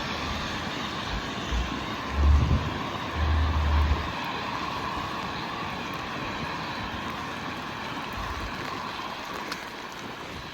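Steady hiss of rain and wet city street ambience. A few low gusts of wind buffet the microphone between about one and a half and four seconds in.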